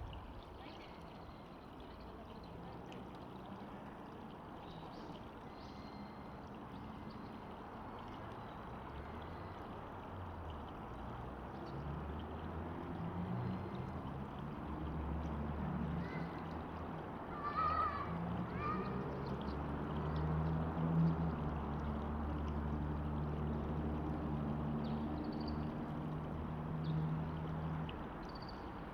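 Steady rush of flowing river water. A low engine hum grows in about twelve seconds in, becomes the loudest sound, and fades out near the end. A few short bird chirps and one brief call sound over it.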